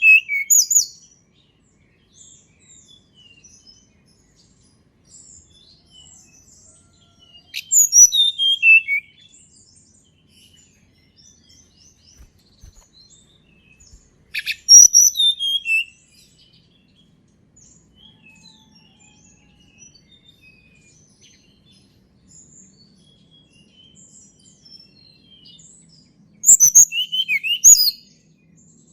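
A tledekan gunung singing: short phrases of about a second and a half, each a quick run of high notes falling in pitch, three times several seconds apart, with faint chirps in between.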